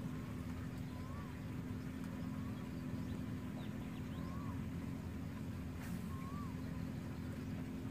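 Boat motor running steadily, a low even hum. Over it a bird repeats a short rising-and-falling call about every second and a half, and there is a single click about six seconds in.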